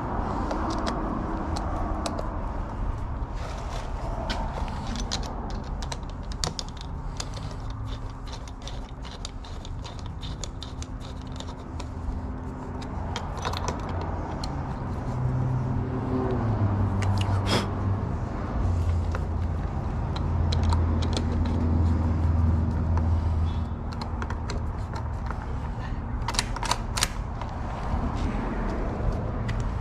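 Scattered light clicks and scrapes of small metal lock parts being handled, over a steady low hum that grows louder between about 15 and 23 seconds in.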